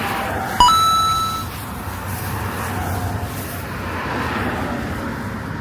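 Steady traffic-like rumble, with one short beep about half a second in that fades within a second.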